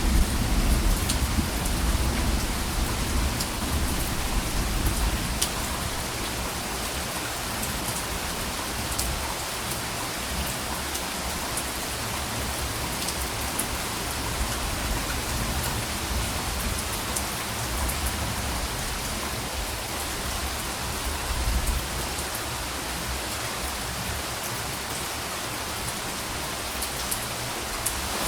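Steady rain falling, with scattered drop ticks, and soft low thunder rumbling near the start and again past the middle.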